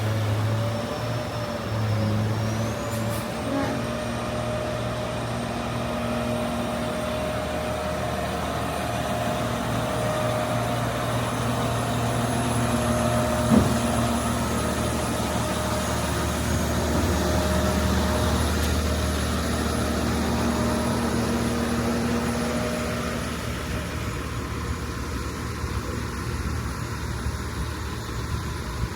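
Street traffic, with truck and car engines running steadily. A single sharp knock about halfway through.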